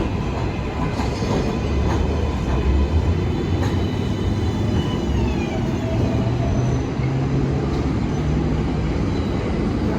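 New York City subway train running through the station with a steady heavy rumble, and an electric motor whine that falls in pitch around the middle.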